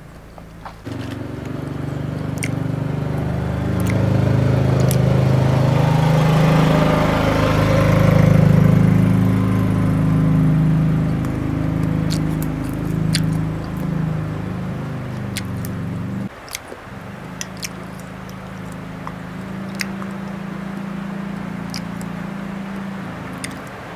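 Heavy rain starting as a sudden downpour: a loud low rumble that builds over several seconds and eases, then drops abruptly about two-thirds through to a softer steady rumble. Small clicks are scattered over it.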